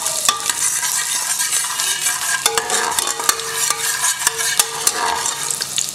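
Chopped ginger sizzling and frying in hot ghee in a Prestige aluminium pressure cooker, stirred with a steel ladle that clicks and scrapes against the pan.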